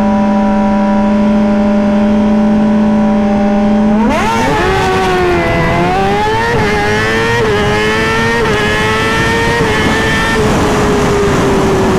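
Suzuki GSX-R1000 inline-four drag bike held at steady revs on the start line, then launching about four seconds in and pulling hard through the gears, the pitch climbing and dropping with several quick upshifts. Near ten seconds the rider comes off the throttle and the engine note sinks under wind noise.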